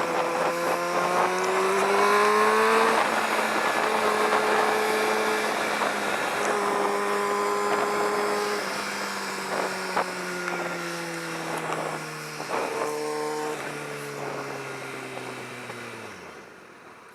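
Kawasaki ZX-6R 636's inline-four engine running under way, with wind rushing past. Its pitch rises as the bike accelerates over the first few seconds, holds roughly steady, then falls away as it slows down near the end.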